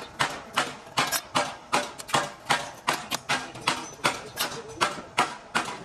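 Hammer blows struck in a steady rhythm, about two and a half a second.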